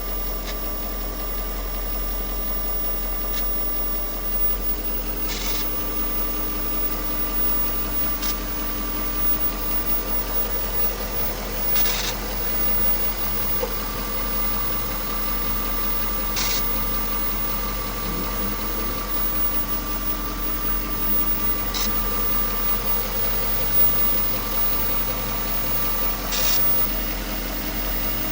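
1998 Jaguar XJ8 (X308) V8 engine idling after a cold start, with a brief static-like crackle every few seconds, about eight in all. It is a new noise, and the owner fears it could be the timing chain.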